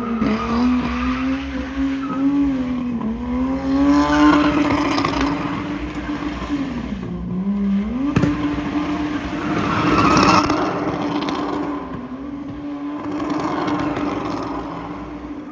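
A car drifting with its engine held at high revs on a steady note that drops briefly twice, and tyre squeal swelling about four and ten seconds in.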